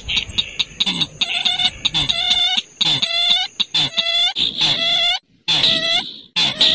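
Recorded bird calls played as a trapping lure: a fast series of short, hoarse calls, about two a second, starting about a second in after a few clicks.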